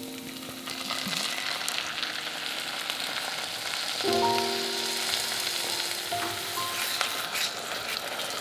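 Chopped vegetables sizzling in oil in a pan, starting about a second in, with occasional light clicks. Soft piano notes play over it around the middle.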